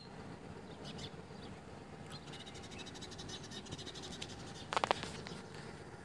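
Outdoor background with birds calling from the trees around an open field: fine rapid chirping high up, and one short, louder rattling call a little before the end.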